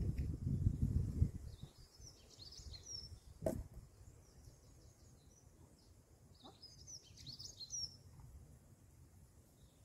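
Songbird chirping in two short bouts, about two seconds in and again about seven seconds in, over faint outdoor background noise. A low rumble fades out at the start, and a single sharp knock comes about three and a half seconds in.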